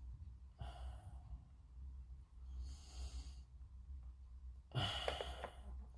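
A person breathing out audibly three times close to the microphone, the last breath the loudest. Faint small clicks come during the last breath.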